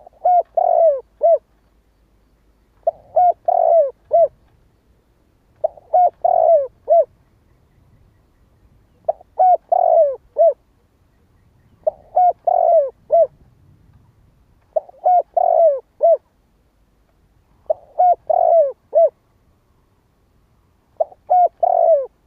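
Spotted dove cooing: a short phrase of four or five coos, repeated steadily about every three seconds, eight times.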